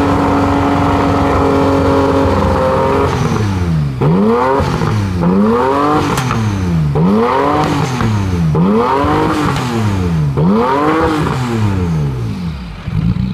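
Porsche 911 GT1's twin-turbo flat-six running at a steady idle. From about three seconds in it is blipped in a quick run of revs, roughly one a second, each rising and falling. It drops back to idle near the end.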